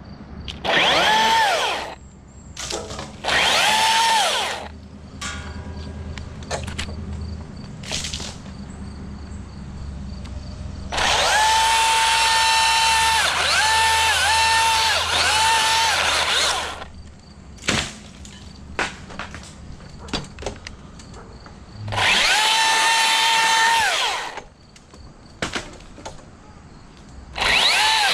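Milwaukee M18 battery chainsaw run in five bursts, each spinning up to a steady high whine and winding down. The longest burst lasts about six seconds and dips in pitch twice as the chain loads up cutting small pieces of dead wood.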